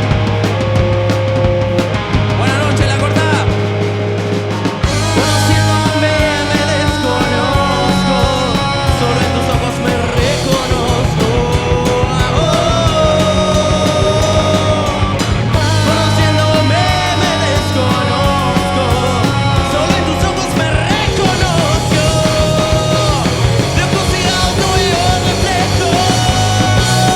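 Rock band playing live in an instrumental passage, with a melody line bending in pitch over the band. The deepest bass and drums come in fuller about five seconds in.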